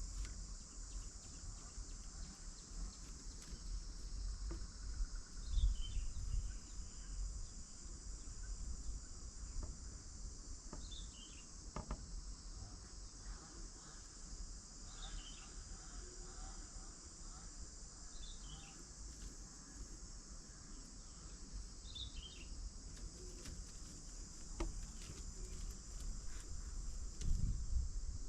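Steady high-pitched insect chorus, with a bird giving short, high, falling chirps every few seconds.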